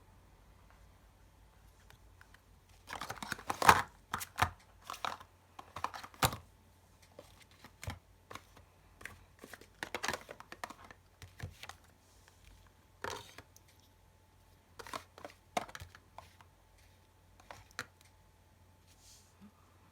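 Irregular handling noises: crinkling and rustling with sharp clicks and taps, coming in clusters and falling quiet near the end.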